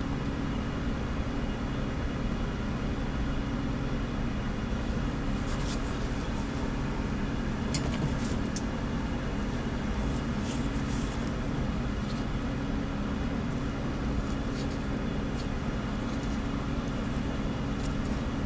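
Steady mechanical hum of a running machine, with a few faint, light clicks of metal parts being handled.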